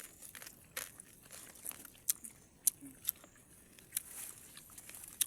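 Crisp crunching and crackling of someone eating dried fish (bulad): a string of short, sharp snaps, the loudest about two, two and a half, three and four seconds in.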